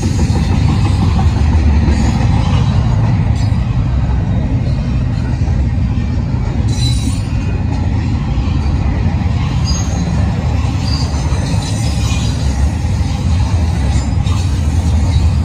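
Union Pacific double-stack container train passing close by: a loud, steady rumble of wheels on the rails, with a few faint, brief squeals and clicks.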